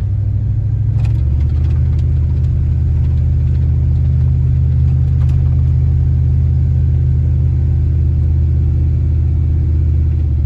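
Car engine and tyre noise heard from inside the moving vehicle's cabin: a steady low rumble, shifting slightly in pitch about a second in.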